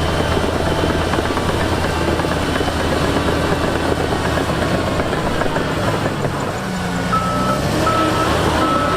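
Diesel engine of heavy earthmoving machinery running with a steady rumble. About seven seconds in, a reversing alarm starts sounding evenly spaced high beeps.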